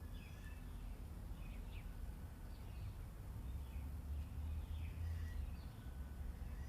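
Faint birds chirping now and then, short scattered calls, over a steady low rumble.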